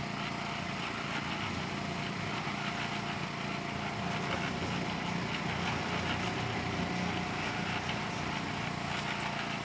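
Small engine running steadily: the generator that powers the cement mixers during the pour.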